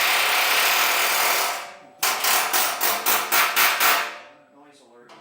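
Hammering on a steel Volkswagen fuel tank to knock its seam apart. A dense unbroken run of blows comes first, then after a short break about eight separate strikes, stopping about four seconds in.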